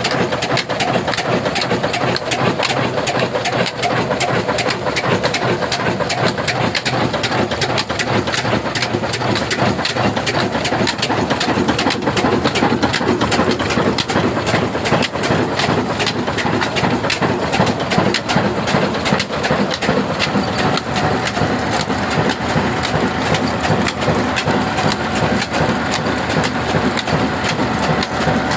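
Old diesel engine running steadily with a fast, even knocking beat.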